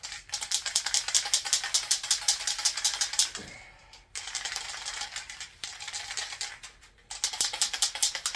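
Aerosol spray paint can being shaken hard, its mixing ball rattling quickly inside, in several spells with short pauses between them.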